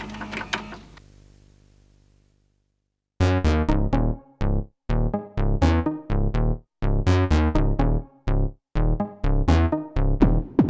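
Behringer Pro-1 analog synthesizer playing multitracked synth music. A hissy, buzzy tone fades out over the first two seconds and then stops. About a second later a tight rhythmic sequence of short, punchy synth notes and synthesized drum hits starts, at two to three beats a second.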